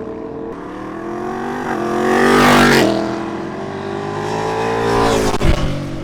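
Superbike engine accelerating hard, its pitch climbing, then dropping sharply about halfway as it shifts up, climbing again and shifting once more near the end.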